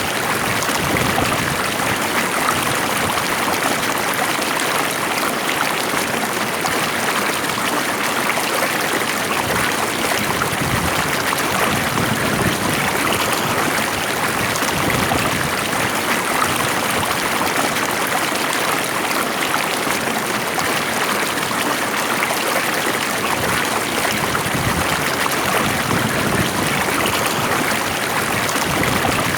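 Stream water flowing steadily over rocks, a continuous even rush and babble.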